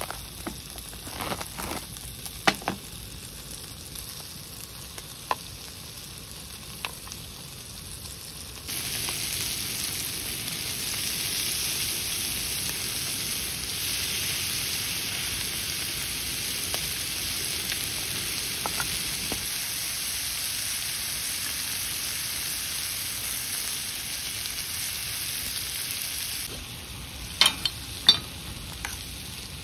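Food frying and sizzling in a hot pan, with scattered clicks of utensils. The sizzle jumps sharply louder about nine seconds in, stays steady, then drops back near the end, where a few sharp clicks follow.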